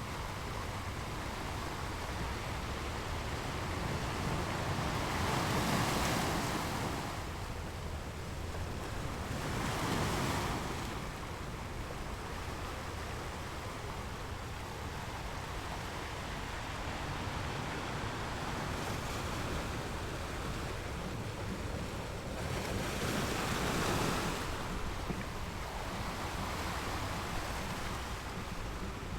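Ocean waves rolling in and breaking on the shore, a continuous wash of surf that swells louder as three waves break, about a quarter of the way in, a third of the way in, and again near the end.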